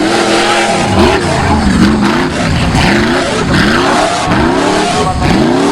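Off-road 4x4 engine revving hard in repeated bursts, the revs climbing and dropping about once a second as the driver works the throttle.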